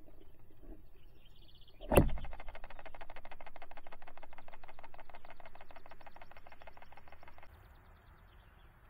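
A sharp knock, then a rapid, even patter of taps for about five seconds that stops abruptly, made by a bluebird right at the trail camera.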